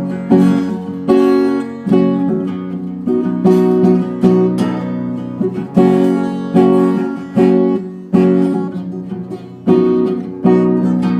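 Acoustic guitar strummed chords, struck roughly once a second, playing an instrumental break between sung lines.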